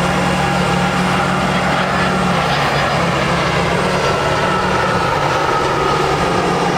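International DT466 diesel engine of a digger truck running steadily, with a whine that rises slowly in pitch from about four seconds in.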